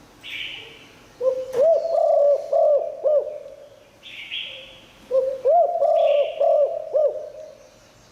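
Spotted dove cooing: two phrases of rolling, looping coo notes, each about two seconds long. Between them come short, higher hissy sounds and one sharp click.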